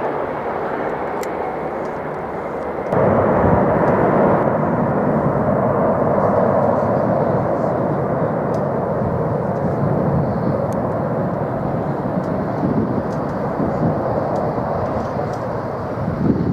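Jet airliner engine noise, a steady rush that abruptly gets louder about three seconds in.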